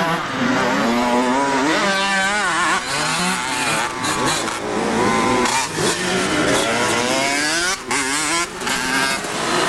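Several motocross bike engines revving on the track, overlapping, their pitch rising and falling repeatedly with the throttle.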